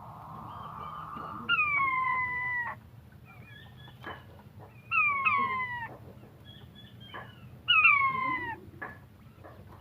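Wild quail calling: three loud drawn-out calls, each about a second long, that fall in pitch and then level off, repeating roughly every three seconds with faint short chirps in between. A soft hiss fills the first second and a half.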